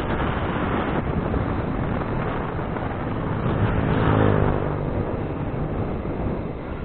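Wind rushing over the microphone on a moving ride, with a motor vehicle passing about four seconds in, its engine swelling and then fading.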